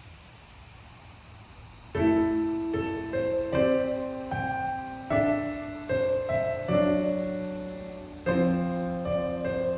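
Faint hiss, then slow solo piano music starting about two seconds in: struck chords that ring and fade, a new chord every second or so.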